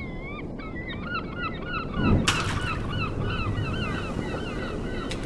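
Bird calling in a rapid string of short repeated calls, about three a second, with a brief burst of noise about two seconds in.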